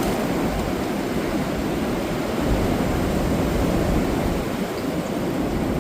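Strong wind: a steady rushing noise with an uneven low rumble underneath.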